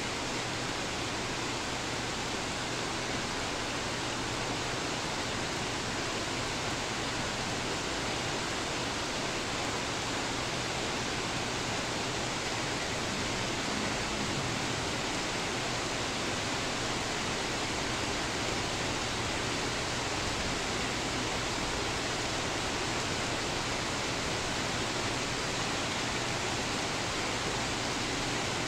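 Heavy rain pouring steadily on trees and leaves, a constant even hiss that neither builds nor fades.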